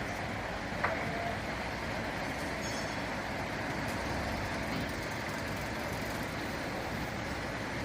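Steady rumble of idling fire-truck engines, with one short sharp squeak about a second in.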